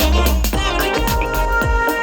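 Music playing back through a portable Bluetooth speaker for a sound test: an instrumental stretch with heavy bass and a steady drum beat, no vocals.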